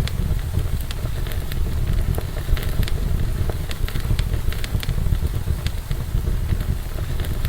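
Wood fire burning in a fireplace: irregular crackles and small pops over a steady low rumble of the flames.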